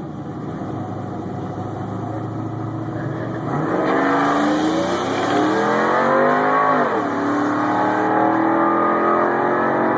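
LS1 V8 engine of a truck sitting at a steady low note, then launching hard about three and a half seconds in, revs climbing, falling sharply at an upshift near seven seconds, then climbing again in the next gear.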